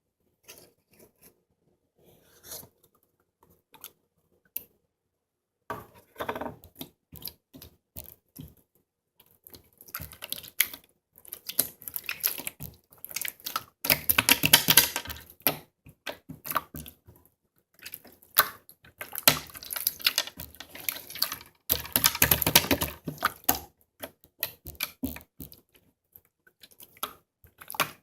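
Slime being squeezed and kneaded by hand, making irregular sticky clicks and wet pops. These come sparsely at first, then thicken into dense crackling runs about halfway through and again a few seconds later.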